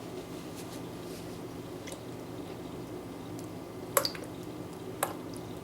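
Avocado oil and fragrance oil being added to a whipped soap base in a bowl, with soft squishing and dripping and two sharp clicks, about four and five seconds in, from the bottles or a utensil against the bowl.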